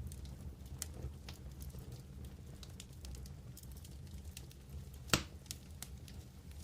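Wood campfire burning, crackling with irregular small snaps over a low steady rumble. One loud pop comes about five seconds in.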